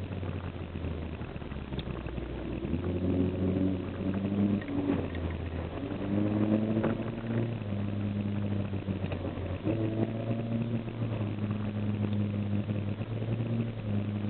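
Toyota Carina's 5A-FE 1.5-litre four-cylinder engine idling through a homemade exhaust with a Honda Accord muffler. It is revved lightly three times, each time settling back to idle.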